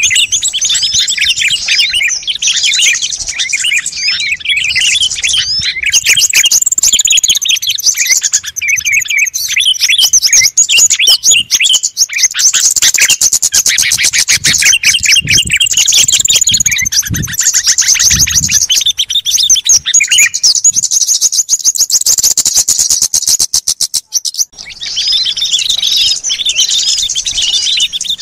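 Bird-lure recording of many small songbirds chirping and calling over one another in a dense, busy chorus. In the middle stretch a bird sings a long, fast trill of rapidly repeated notes, which breaks off briefly just before the chorus resumes.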